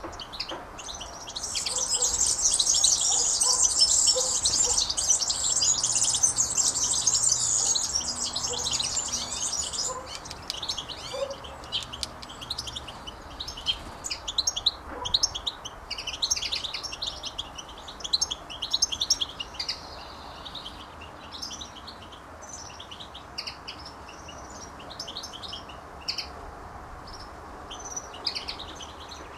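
Small birds chirping and twittering, many at once. A dense, loud burst of high chatter fills the first ten seconds, then it thins out into scattered quick chirps.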